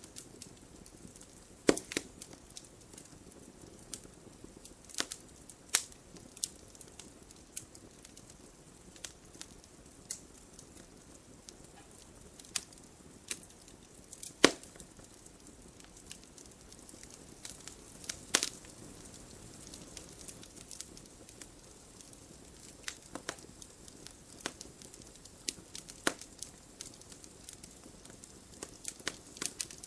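Wood fire burning in a fireplace: logs crackling with irregular sharp pops and snaps over a faint steady hiss. The loudest snaps come about two seconds in, about halfway, and a few seconds later.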